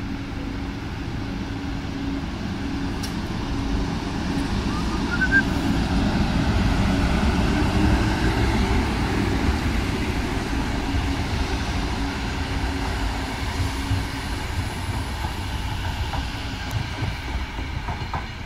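Renfe electric passenger train passing close by, a steady rumble of wheels on rails that builds a little toward the middle as the carriages go past.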